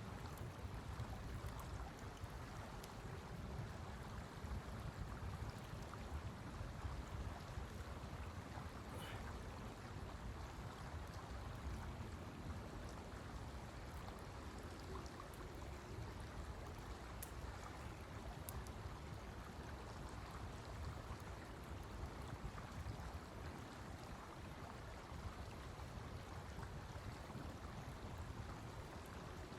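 Blizzard wind blowing steadily in gusts, heaviest in the low rumble, with a few faint clicks.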